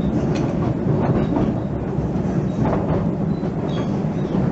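Narrow-gauge heritage train running along the track: a steady rumble of carriage and wheels, with scattered clicks and rattles.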